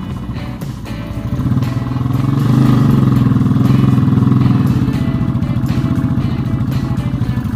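Single-cylinder motorcycle engine running under way, growing louder for a couple of seconds in the middle, with music playing over it.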